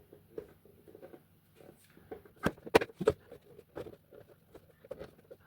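Small clicks and taps of 3D-printed plastic mask pieces being handled and pressed into place, with a few sharper knocks a little past halfway.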